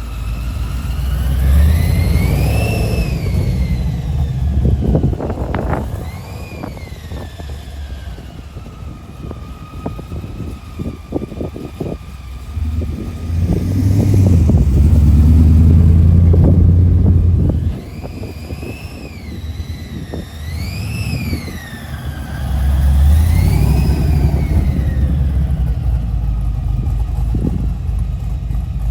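Muscle car engine revving and running, swelling loud three times, with a rising and falling whine above the deep exhaust.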